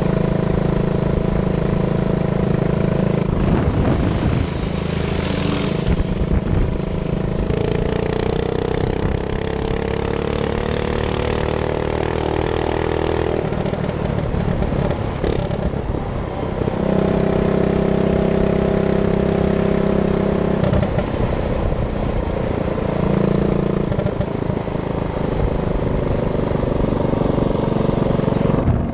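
Minibike's small engine running under way, its pitch climbing slowly for several seconds and then shifting up and down with the throttle.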